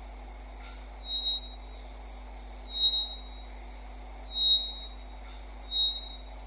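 Three-wattled bellbird's flute-like whistle call: four short, clear whistles at one steady pitch, about a second and a half apart, over the faint steady hum of the recording.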